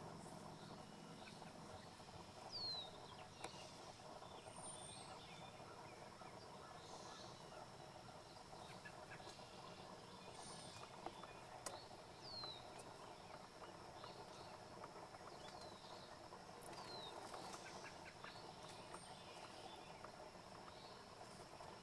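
Quiet outdoor ambience with faint, distant songbird calls: short falling whistles every few seconds and a few brief high chirps, over a steady faint high hum.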